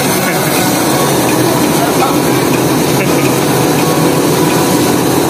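Floating fish-feed pellet extruder machine running, a loud steady mechanical din.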